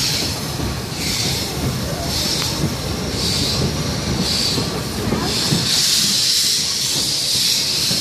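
A museum railway train running, with a steady rumble and a hiss that comes in regular bursts about once a second and then turns continuous for the last few seconds.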